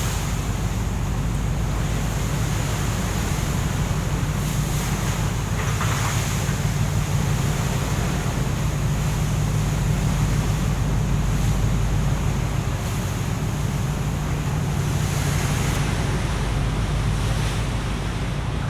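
A ship's engine running steadily with a low hum, under wind on the microphone and the wash of the sea, with a few brief gusts.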